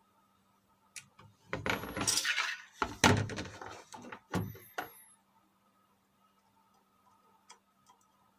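Handling noise: a click about a second in, then a few seconds of irregular clattering and rustling, loudest around the middle, ending with a knock near the five-second mark.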